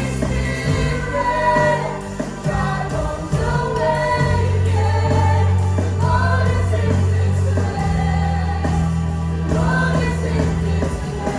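Worship music: a band playing with singing voices in a slow gospel style, held bass notes underneath.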